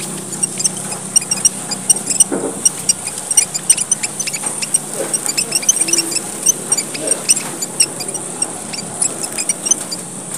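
A flock of Papuan red finches (emprit merah papua) chattering busily: many short, high chirps overlapping without pause, the lively 'gocar' calling used as a lure.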